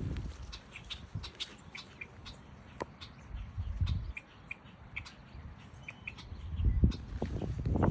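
Many short, high bird chirps and peeps scattered throughout, with a low rumble about halfway through and a louder one building near the end.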